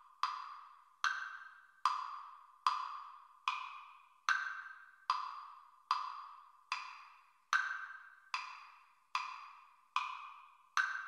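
Metronome clicking with a wood-block sound, about 72 beats a minute, every fourth click higher as the accented downbeat of a four-beat bar.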